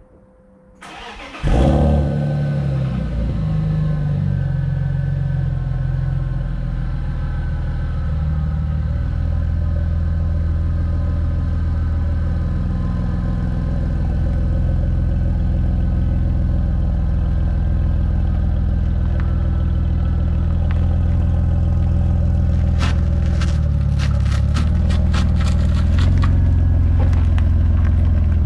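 BMW E36 engine starting and idling through its welded exhaust. It catches about a second and a half in and then runs steadily, with a run of sharp clicks over the last few seconds.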